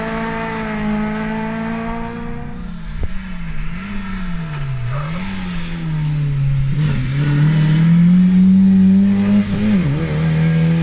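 Rally car engine working through a hairpin: the revs fall and rise three times, then climb steadily under hard acceleration, with a quick dip near the end as it shifts gear.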